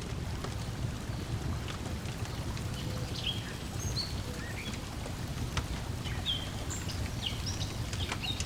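Lakeside ambience: small waves lapping as a steady low wash, a wood fire crackling in sparse pops, and songbirds chirping in short calls through the middle and later part.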